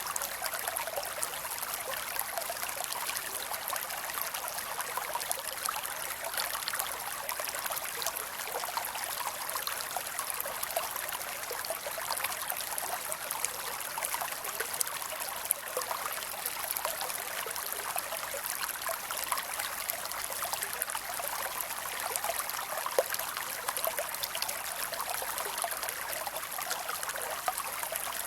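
Creek water running and trickling steadily over rocks, a continuous splashing babble with no low rumble.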